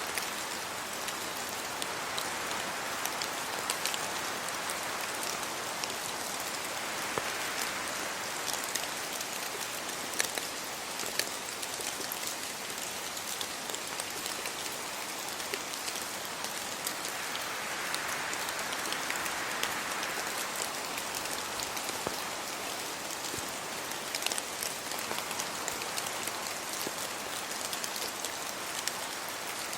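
Steady rain falling, with many scattered individual drops ticking and a few gentle swells, as of wind moving through wet trees.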